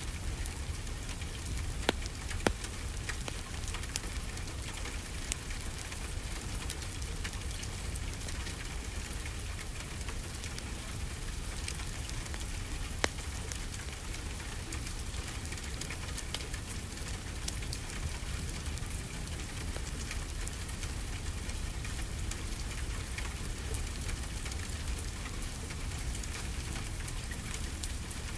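Steady rain falling over a low constant rumble, with a few sharp crackling pops from a wood fire, about five in all.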